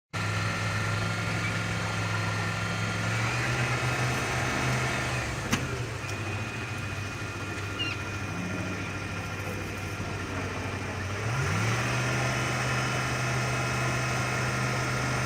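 A vehicle engine running steadily. Its pitch steps up slightly about three seconds in and rises again near the end, with a single sharp click in between.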